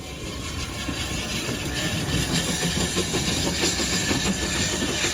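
Steam train drawing closer and growing louder, with a fast rhythmic clatter of wheels on the rails.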